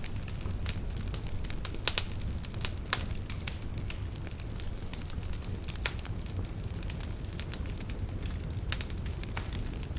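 Wood campfire burning steadily, with irregular sharp crackles and pops over a low rumble of flame; the loudest pops come about two and three seconds in.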